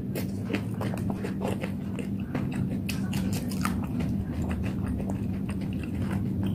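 Close-up chewing and wet mouth smacks of a person eating fried noodles, in many short irregular clicks, over a steady low hum.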